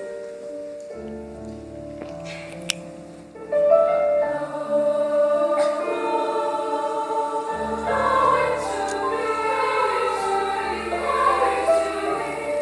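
A choir singing with piano accompaniment. Held piano notes come first, and the full choir enters about three and a half seconds in, much louder.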